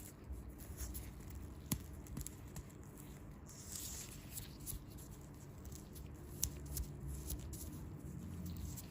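Soft handling noises from hands working on bare feet: light rustling and scratching with scattered small clicks, a sharper click just under two seconds in and another about six and a half seconds in.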